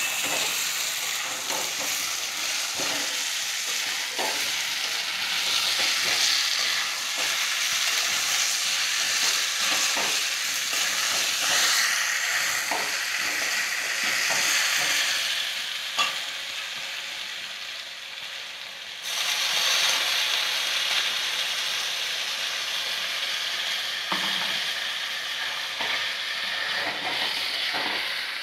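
Chicken and potato curry sizzling in a metal kadai while a spatula stirs and scrapes around the pan in repeated strokes. The sizzle fades for a few seconds past the middle, then comes back at full level.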